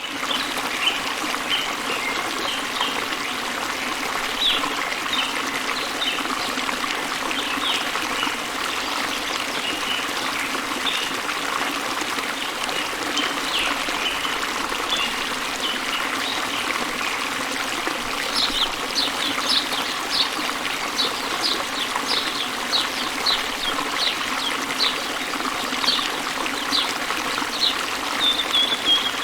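Steady rush of falling water from a waterfall, with songbirds chirping over it. Scattered short chirps give way about two-thirds of the way through to a quick series of sharp, falling chirps, and a short downward trill comes near the end.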